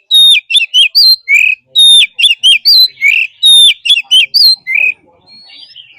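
Oriental magpie-robin singing loud, whistled phrases, the same phrase repeated about every second and a half. The song stops about five seconds in, followed by a few faint notes.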